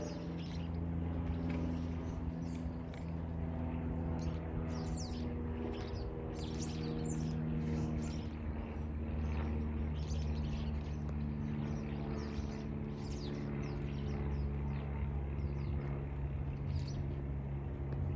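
Small birds chirping in short, high notes scattered throughout, over a louder steady low hum.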